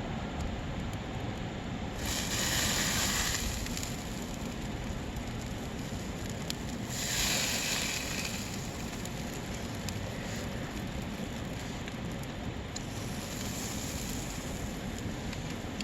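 Water sprayed onto a campfire, hissing in two bursts of about a second and a half each, the first a couple of seconds in and the second about seven seconds in, over a steady low background noise.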